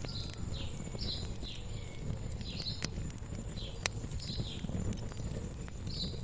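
Wood fire burning with a steady low rumble and a few sharp crackling pops near the middle. Over it, a bird repeats short falling chirps, roughly two a second.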